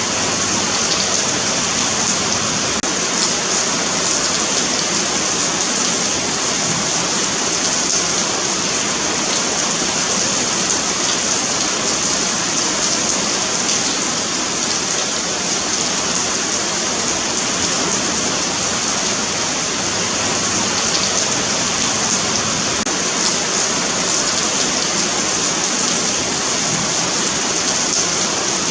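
Steady rain falling on a paved sidewalk, an even hiss of many drops striking the pavement.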